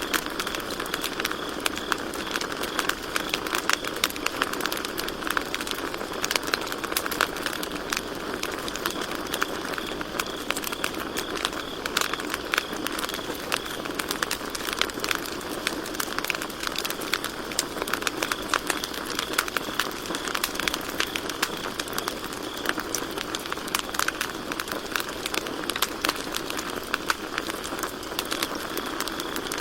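Campfire crackling steadily, with frequent sharp snaps over a soft hiss of burning wood, and crickets trilling in a constant high chorus behind it.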